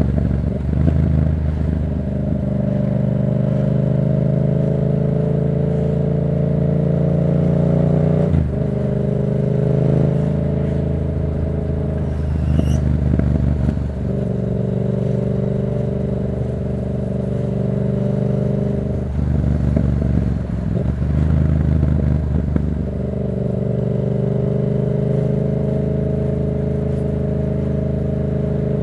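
Yamaha MT-07's parallel-twin engine running through a Black Widow aftermarket exhaust while riding: the engine note climbs slowly under steady throttle, then drops away and picks up again several times, as at gear changes or easing off the throttle.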